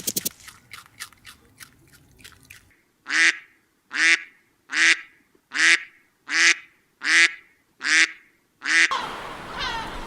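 A bird giving a steady series of nine short, nasal, duck-like calls, about one every 0.7 seconds, after a run of quick clicks; a different, denser sound starts near the end.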